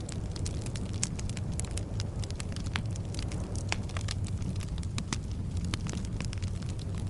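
Bonfire burning: a steady low rumble of the flames with frequent sharp crackles and pops of burning wood, several a second at irregular intervals.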